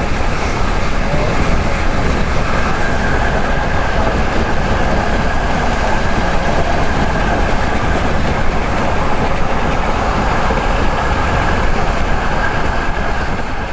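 Passenger train rolling along, heard from inside the coach: a steady rumble and rattle of the wheels on the rails, with a thin high whine joining about two seconds in.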